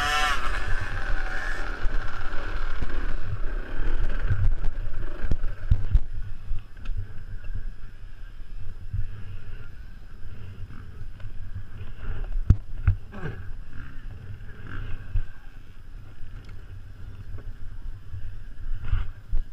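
Small two-stroke youth motocross bike engine revving, fading out over the first few seconds as the bike moves away. Then wind buffets the microphone, with a few knocks.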